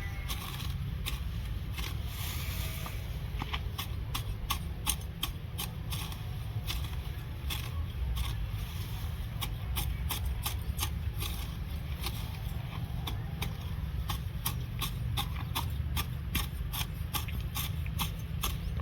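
Grass being cut by hand, a quick irregular series of sharp snipping strokes, several a second, over a low steady rumble.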